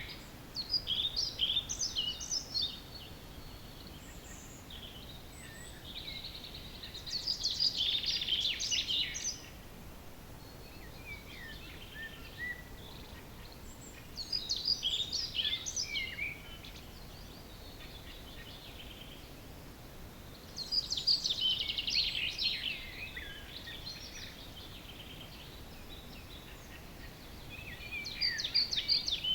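Wild songbirds singing at dawn: a song phrase of two to three seconds recurs about every six seconds, with quieter calls in between.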